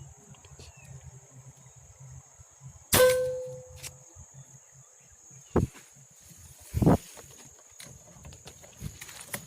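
A single sharp air-rifle shot about three seconds in, with a brief ringing tone after it; two duller thumps follow a few seconds later. A steady high-pitched insect drone runs underneath.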